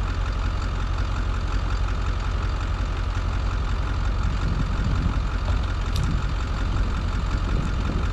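A single-turbo, emissions-deleted Ford 6.4 L Powerstroke V8 turbodiesel running steadily at a low idle, with a deep, even rumble and no revving.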